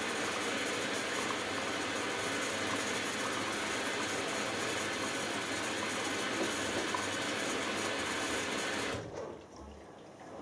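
Hoover Dynamic Next washing machine taking in its first fill of water: a steady rush of water through the inlet valve and detergent drawer that cuts off suddenly about nine seconds in as the valve shuts.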